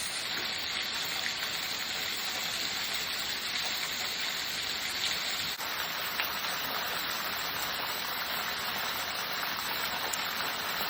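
Small waterfall running over icy rocks: a steady rush of falling water.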